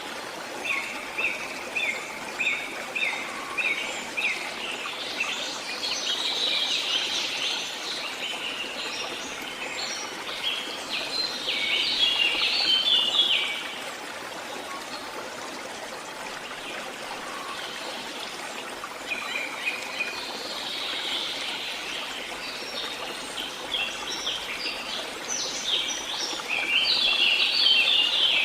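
Songbirds singing in bouts of short repeated chirps over the steady rush of flowing water.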